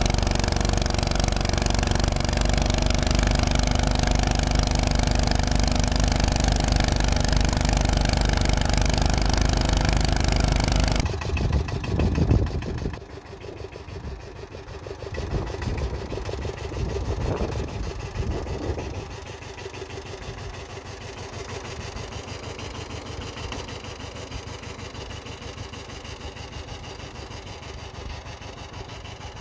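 Walk-behind tractor engines running. A loud, steady engine runs for about the first eleven seconds. After an abrupt cut, a quieter engine surges a few times and then runs steadily.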